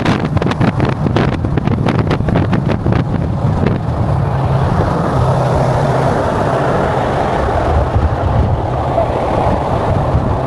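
Car engine running at a car meet with a steady low hum, with a rapid crackle of sharp clicks over the first few seconds that then dies away.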